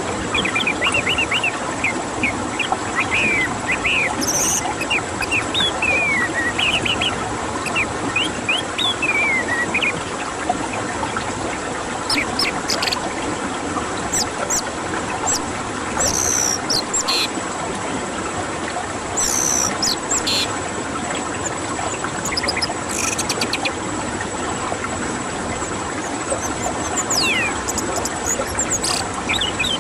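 Songbird singing in quick runs of short, high chirps and rising and falling whistles, over a steady background hiss with a faint constant high tone.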